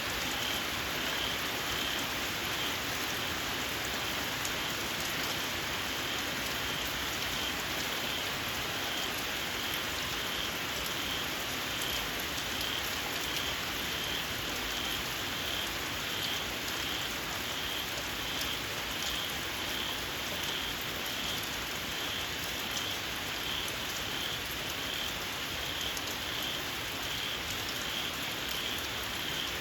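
Steady rain falling, with a small frog calling through it in a regular, repeated high chirp, a little more than once a second.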